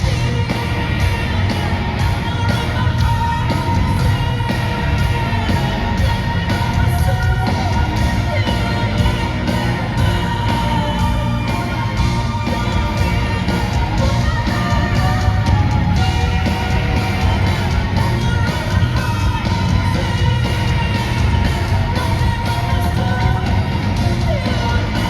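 Live rock music from a band with orchestra: loud, steady playing with a singer's voice, partly yelled.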